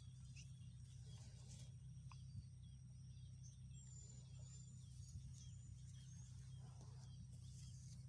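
Near silence: a steady low hum under faint, scattered high bird chirps, with one thin whistled note about four seconds in.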